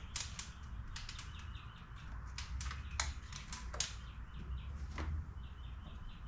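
Scattered sharp clicks and light metallic taps of hand tools and a spark plug being handled as the plug is pulled from the engine. Small birds chirp in short quick series in the background.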